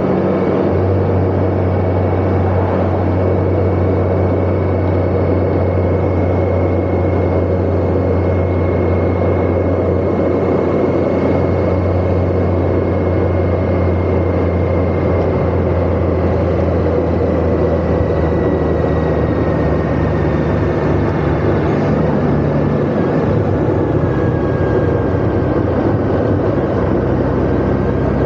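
Motorcycle engine running steadily while riding, with road and wind noise. About 23 seconds in, the engine note shifts higher. A faint thin whine runs through it, slowly falling in pitch.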